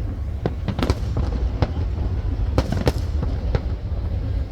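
Fireworks bursting: a scattered run of about nine sharp bangs and cracks, some in quick pairs, over a constant deep rumble.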